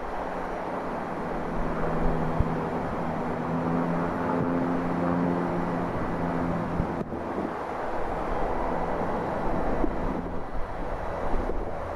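CSX freight train running past, a steady rumble with a held low engine hum from its diesel locomotive that fades about seven seconds in.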